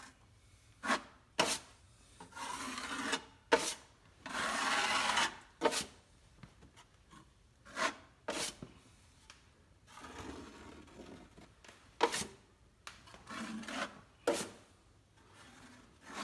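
A drywall knife scraping joint compound across a wall patch in strokes of about a second each, with sharp metallic clicks between the strokes.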